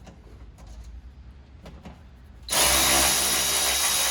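Faint clicks of parts being handled, then about two and a half seconds in a power drill starts and runs steadily at high speed.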